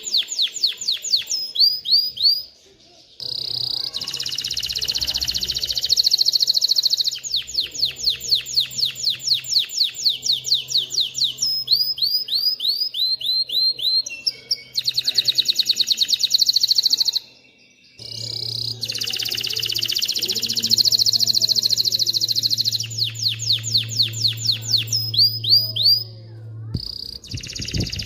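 Male canary singing: long rolling trills of rapidly repeated high notes, changing from one tour to the next, in phrases broken by brief pauses about 3, 17 and 26 seconds in.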